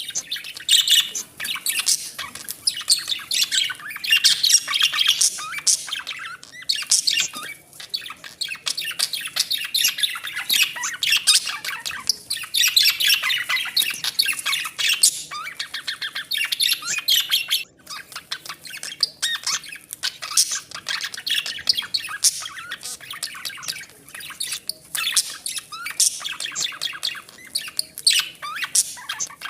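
A flock of budgerigars chattering, chirping and squawking without a break, many birds calling at once in quick high-pitched bursts.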